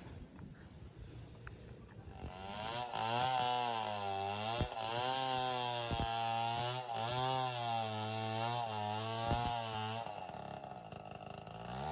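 Chainsaw starting about two seconds in and running hard, its pitch sagging and recovering several times as it is worked. It eases off briefly near the end and then picks up again.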